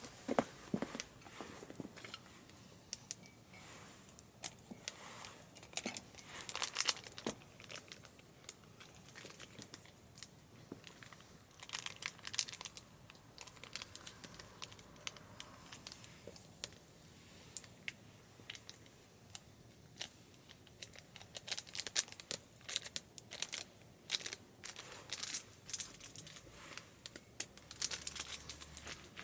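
Wood fire crackling and popping in a small wood stove burning disposable chopsticks and scrap wood, with irregular snaps, some in quick clusters.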